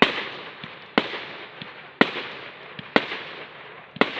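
Aerial firework shells bursting in a steady sequence: five loud bangs about a second apart, each trailing off before the next.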